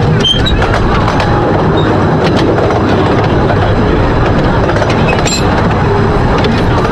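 Ride in an open carriage of a 15-inch-gauge miniature railway train: a steady rumble of wheels on the track, with scattered clicks over the rail joints and brief high wheel squeals near the start and about five seconds in as the train takes a curve.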